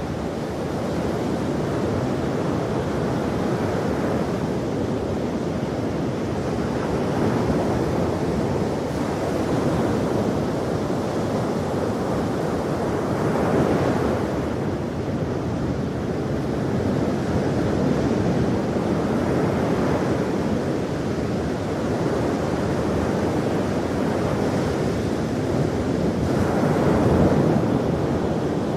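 Ocean waves breaking on a shore, a continuous wash of surf that swells every few seconds, strongest about halfway through and again near the end.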